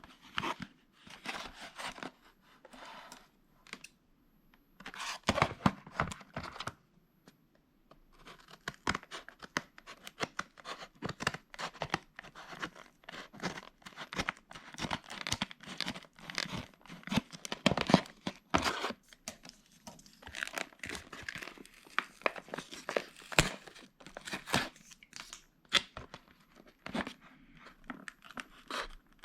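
Product packaging being torn open and crinkled by hand, in irregular bursts of tearing and rustling with a couple of short pauses.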